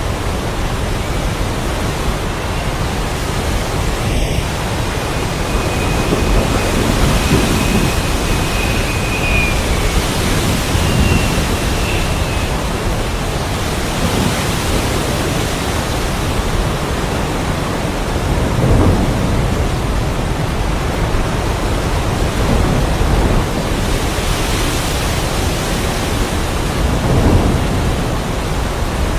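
Heavy rain falling in a steady hiss, with several rolls of thunder swelling and fading through it.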